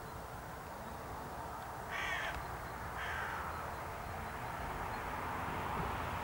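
A bird calling twice, about a second apart, against a steady background hiss.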